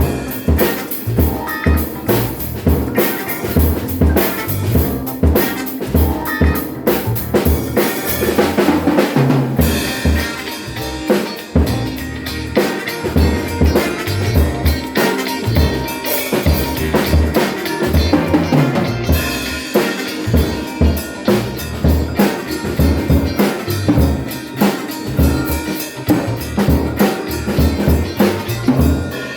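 ADW Astro 5 drum kit being played: a steady groove of bass drum and snare hits, with cymbals ringing through the opening stretch, dropping out at about nine seconds and returning briefly later.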